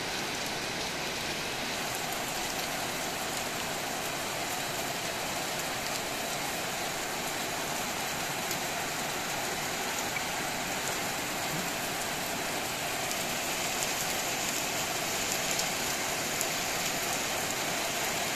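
Steady rain falling: a dense, even hiss with scattered faint drop taps, growing a little louder in the last few seconds.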